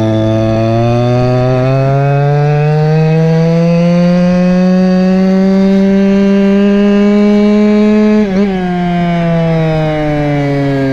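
Goped scooter's small two-stroke engine, a Chongyang CY26RC, running hard under load, its pitch climbing steadily as the scooter picks up speed. A little over eight seconds in the revs dip for a moment, then the pitch eases lower.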